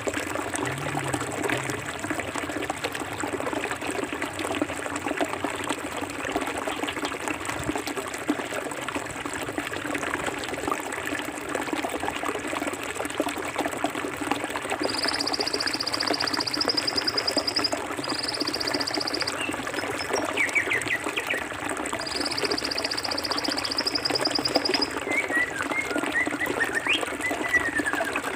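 Clear forest river flowing steadily over stones, a constant rushing and trickling. From about halfway a high, rapid trill comes in three stretches, and a few short bird chirps sound near the end.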